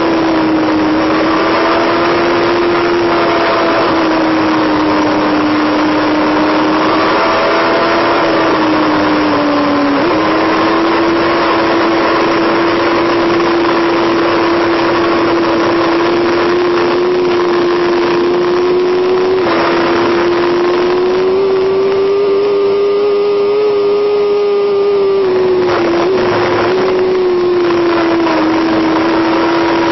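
Motorcycle engine running hard at high, fairly steady revs, its pitch drifting slightly and stepping up about ten and twenty seconds in, over a continuous rush of wind and road noise.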